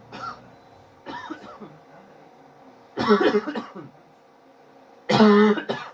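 A person coughing: two short, softer coughs, then two longer, louder bouts about three and five seconds in.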